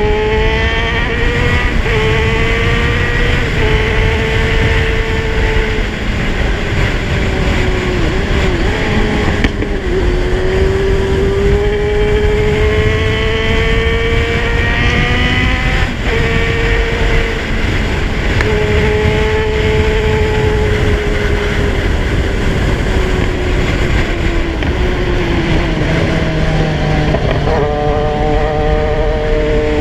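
Kawasaki Z1000 inline-four motorcycle engine under way, its note climbing in pitch as it accelerates through the gears and dropping at each shift, with wind and road rumble underneath.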